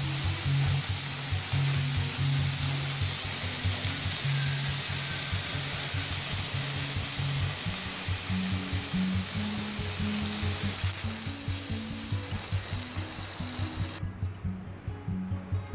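Skewered tempe gembus sate sizzling in oil on a grill pan, a steady frying hiss. Near the end the sizzling cuts off abruptly.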